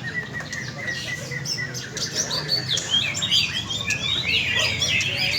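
Many green leafbirds (cucak ijo) singing at once: a dense, overlapping stream of quick high chirps and sliding whistles with no break.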